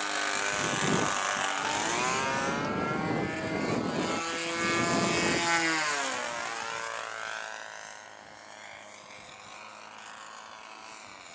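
Radio-controlled model airplane flying past, its motor and propeller note rising in pitch as it comes in, then dropping as it passes and fading away after about seven seconds.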